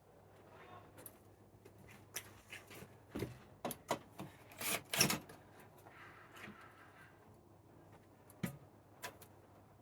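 Knocks, clicks and scraping from a gas forge's propane burner assembly being fitted back onto the forge. They come as a busy run between about two and five seconds in, then two single knocks near the end.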